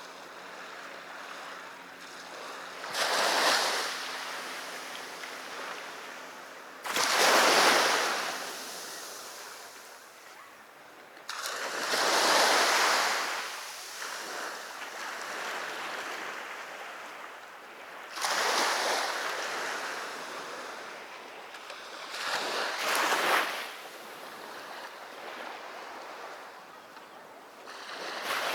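Sea waves breaking on a beach: a surge of surf every four to six seconds, each rising quickly and washing away, over a steady hiss of water.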